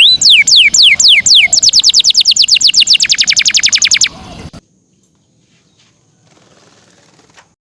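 Canary singing: a series of clear falling whistled notes, speeding up into a fast trill of about eight notes a second, which breaks off suddenly about four seconds in.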